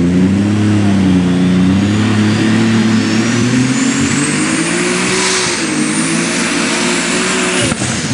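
Unlimited super stock pulling tractor's turbocharged alcohol engine under full throttle, with a deep engine note and a high turbo whine climbing steadily. Near the end there is a sharp crack, and the whine begins to fall.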